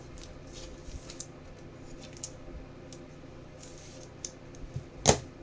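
Trading cards being handled and slid from one to the next: light scattered ticks and rustles over a faint steady hum, with one sharp click about five seconds in.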